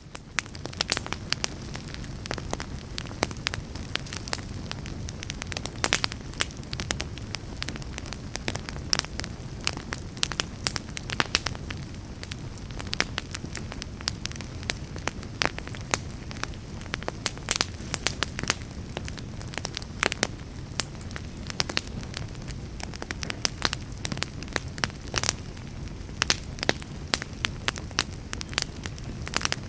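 Log fire burning in a fireplace: a steady low rush of flame under frequent, irregular sharp crackles and pops from the burning wood.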